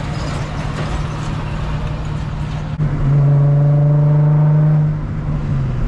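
Infiniti G35's 3.5-litre V6 running through a muffler and resonator delete, a steady exhaust drone. Nearly three seconds in, after a click, the exhaust note grows louder and holds at a steady pitch for about two seconds, as under throttle, then eases back.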